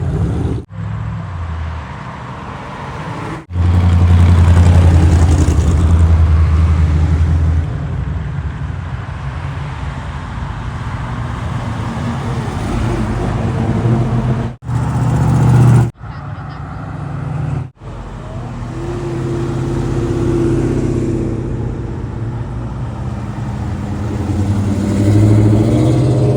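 Classic car engines running as cars drive past one after another, loudest from about three and a half to seven and a half seconds in, with a few sudden breaks in the sound.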